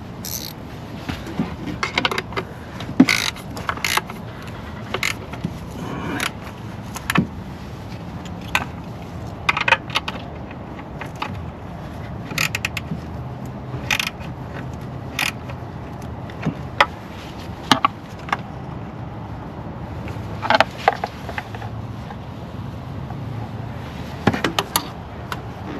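Irregular clicks and clinks of hand tools and small metal parts being handled while engine components are refitted, over a steady low background hum.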